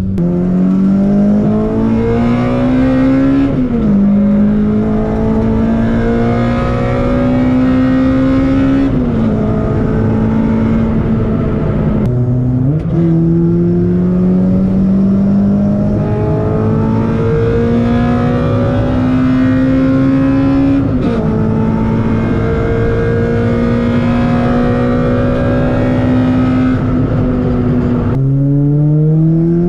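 Toyota Corolla T-Sport's four-cylinder engine pulling the car along, its pitch climbing through each gear and dropping at each gear change, about five times. After two of the changes, near 12 seconds and near the end, the pitch falls low and then climbs steeply again.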